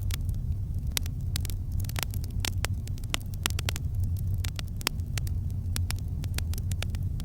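Campfire crackling: many sharp pops and snaps, several a second and irregular, over a steady low rumble.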